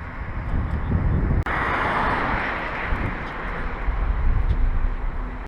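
Wind rushing over the microphone and road noise from a ride in progress, a steady low rumble and hiss, with an abrupt cut about a second and a half in, after which a brighter hiss takes over.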